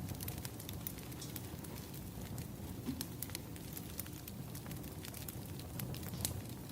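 Wood fire crackling: irregular sharp pops and snaps over a low, steady rumble of the burning logs.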